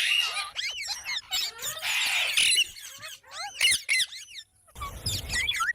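Parrot giving a rapid run of short squeaky chirps that bend up and down in pitch. There is a harsher screech about two seconds in and a brief pause shortly before the end.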